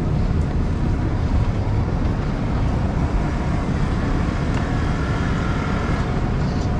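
City street traffic noise: a steady low rumble of engines and tyres, with a faint higher whine about halfway through.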